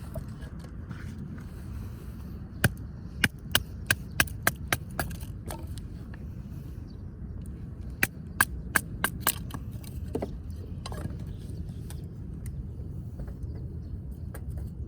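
Wood cracking in two quick runs of sharp snaps, about seven and then about five, over a steady low rumbling noise.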